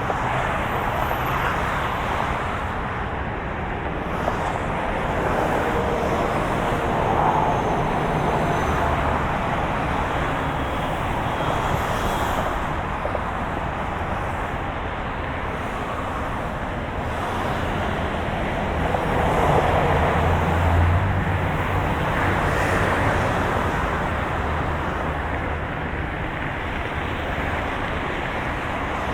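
Moving car noise: a steady hum of engine and road, swelling slightly about seven and again about twenty seconds in.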